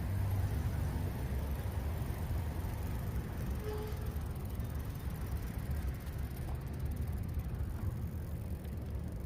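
Wind rumbling on a GoPro's microphone while cycling: a steady low rumble.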